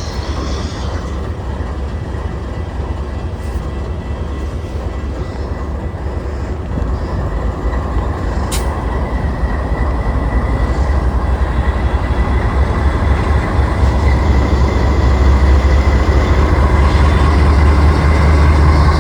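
Amtrak passenger train running by on the rails, a steady heavy rumble that grows louder toward the end, with a thin high whine from the wheels and one sharp click about halfway through.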